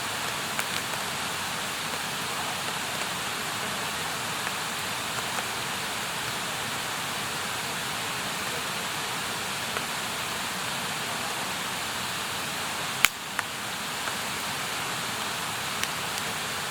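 Wood campfire burning with a steady hiss and occasional sharp pops and crackles, one loud pop about thirteen seconds in.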